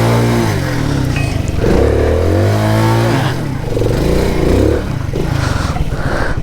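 Small moped engine revved hard in about three bursts, pitch climbing and dropping, as the rear wheel spins in mud and the bike stays stuck; the tyres are worn bald.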